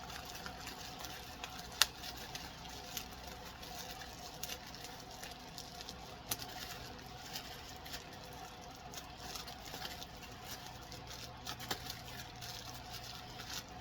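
Hands opening a package: scattered small clicks, taps and rustles of packaging being handled, with one sharp click about two seconds in.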